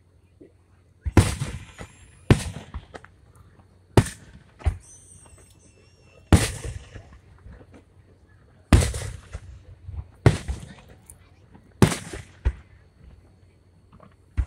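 Aerial firework shells bursting overhead: about nine sharp booms at irregular intervals, some in quick pairs, each fading out over a second or so.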